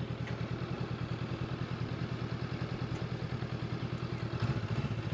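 Honda CB500X's parallel-twin engine running at low revs, a steady, evenly pulsing motorcycle engine sound.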